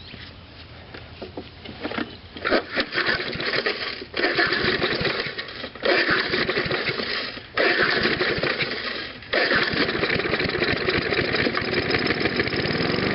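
Old Snapper Hi-Vac mower's 3 hp Briggs & Stratton engine being pull-started cold after sitting for years: several pulls on which it fires for a second or so and dies abruptly, then it catches and keeps running unevenly for the last few seconds.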